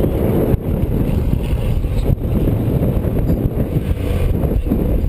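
Motorcycle engine running, loud and steady, largely buried in wind buffeting on the bike-mounted camera's microphone; the rumble briefly dips about half a second in and again about two seconds in.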